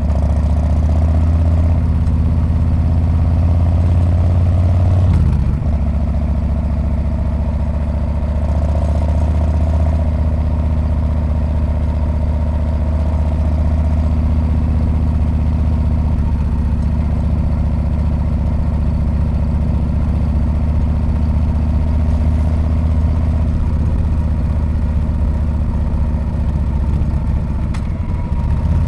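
Harley-Davidson Street Bob's V-twin engine and exhaust running steadily while riding, a deep low note. Its pitch and level drop slightly about five seconds in, and the level dips briefly again near the end.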